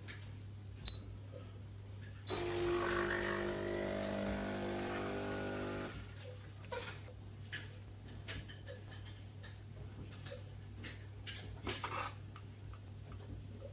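Two short high beeps, then a small motor runs steadily for about four seconds and stops. Light clicks and knocks follow.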